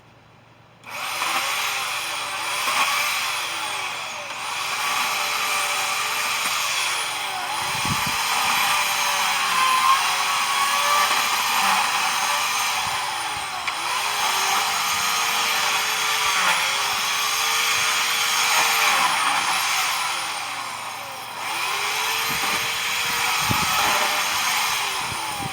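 A power cutting tool's motor starts about a second in and runs steadily, its pitch repeatedly dipping and recovering as it bites into the cut material, with two dull thumps along the way.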